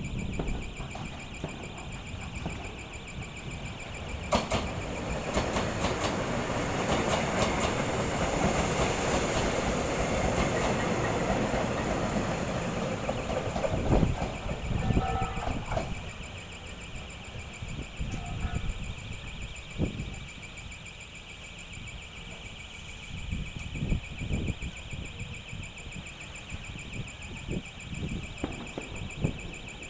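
A TRA EMU500 electric multiple-unit train pulling into the station. Its wheels and running gear build to a loud rumble with rail clatter about four seconds in, then fade after about sixteen seconds, leaving scattered knocks. A steady high electronic warning tone sounds throughout.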